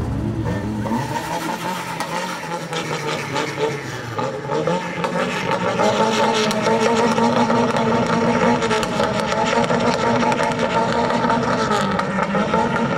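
Car engine revving: its pitch rises a couple of times, then holds steady and high for several seconds before dropping back near the end.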